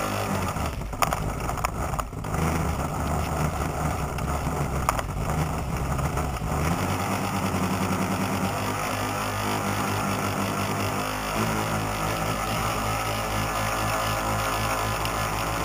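Boat motor running steadily on the water, with a few sharp knocks in the first two seconds and a change in the motor's pitch about halfway.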